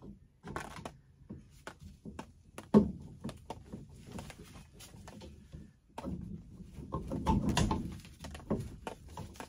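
Copper pipe and press fittings being handled and pushed together by hand: scattered clicks and knocks, one sharp knock about three seconds in, and a longer stretch of rubbing and scraping in the second half.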